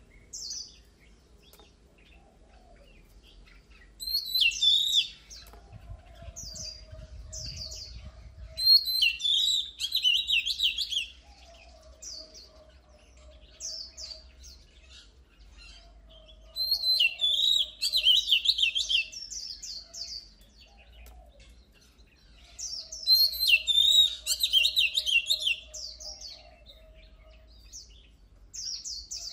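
Oriental magpie-robin singing: four loud bursts of rapid, varied whistled and chattering phrases, with short single notes in the gaps between them.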